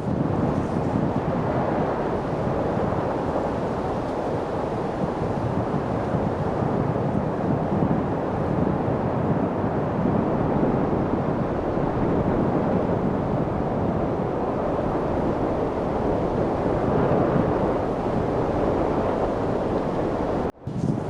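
Light wind blowing steadily, a rushing noise that slowly swells and eases, cutting out for a split second near the end.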